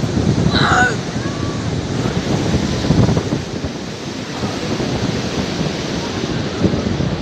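Wind buffeting the microphone over the steady rush of surf breaking on a shallow sandy beach, with a brief high-pitched sound about half a second in.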